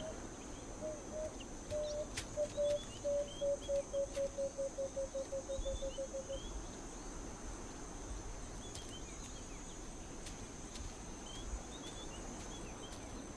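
Savannah ambience: a bird's call of short, low cooing notes that come faster and faster and slightly lower, stopping about six seconds in, over a steady high insect hiss and scattered faint chirps.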